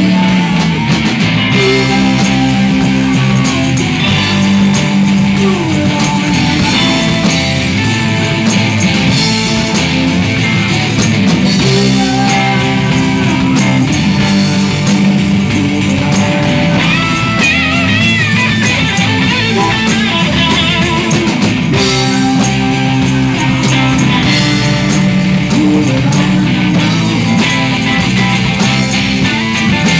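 Live band playing a rock number through an instrumental stretch with no singing.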